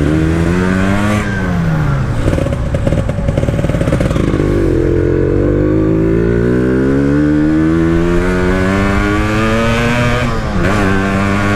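Motorcycle engine under way, its pitch dropping about a second in, then climbing steadily for several seconds as it accelerates, with a brief dip near the end like a gear change before it rises again.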